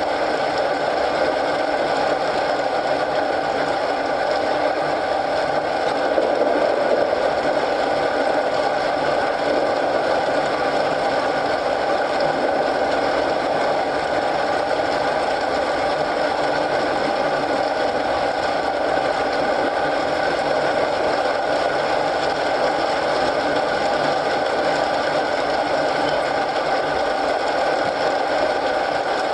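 Steady rain and a crackling fireplace making one even, unbroken noise, slightly louder about six seconds in.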